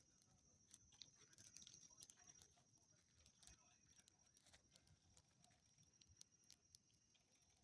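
Faint, irregular crackling and popping of a wood bonfire, with a steady thin high-pitched tone underneath.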